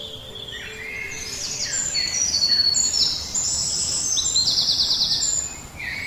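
A chorus of small birds chirping and calling, many high chirps and short trills overlapping, with a fast buzzy trill about four seconds in.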